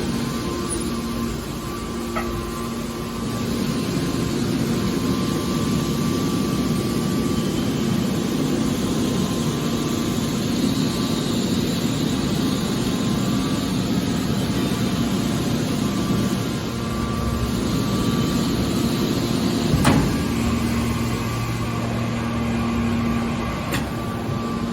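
Hydraulic metal baler running: a steady machine hum with a constant pitch, broken by one sharp knock about 20 seconds in.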